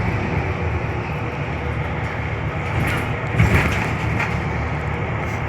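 Scania K320UB bus's diesel engine running with road noise, heard from inside the cabin. There is a brief louder rattle and bump about three and a half seconds in.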